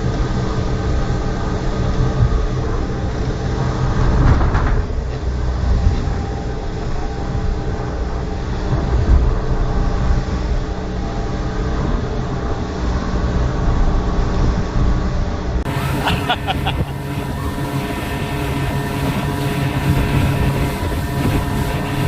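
Speedboat engine running steadily at speed, over a heavy low rumble of wind and rushing water.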